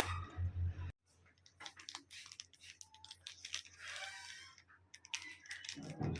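Small clicks, taps and a brief rustle from objects being handled, after an abrupt cut about a second in.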